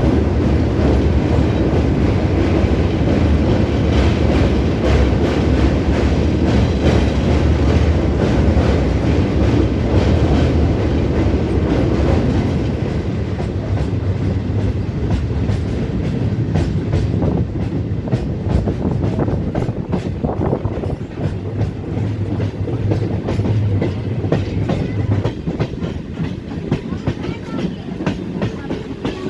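Old EMU local train heard from on board while running: a steady rumble of wheels on rail with rapid clickety-clack clicks. The rumble grows quieter about halfway through.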